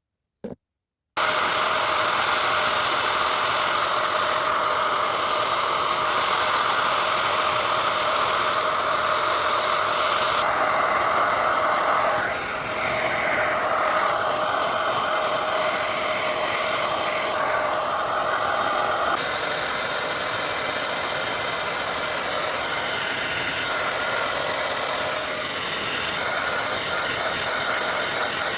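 Handheld hair dryer switched on about a second in and running steadily, a loud rush of air with a steady whine. Its sound shifts a little twice along the way.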